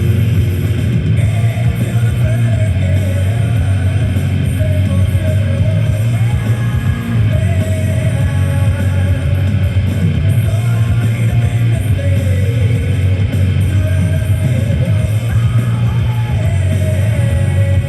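Rock music with singing and guitar playing on a radio, over a steady low hum.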